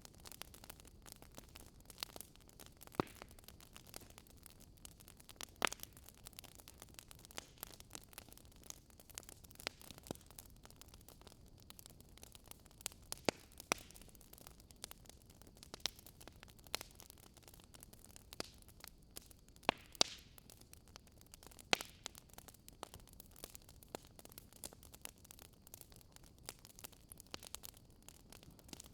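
Quiet wood fire crackling in a fireplace: irregular small crackles over a soft hiss, with several louder pops scattered through.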